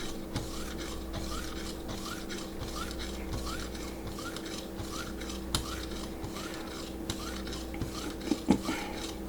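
Abrasive strokes of a Vipersharp guided sharpener's arm being drawn along a knife edge, a soft rhythmic rubbing about two strokes a second, as the burr is worked off the edge.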